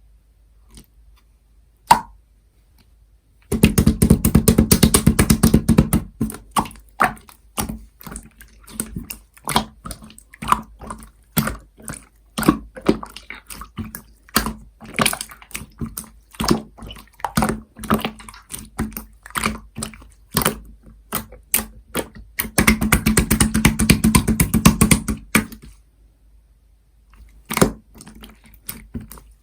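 Opaque slime played with by hand: a run of wet clicks and pops, with two stretches of rapid squishing and crackling, one a few seconds in and another later on.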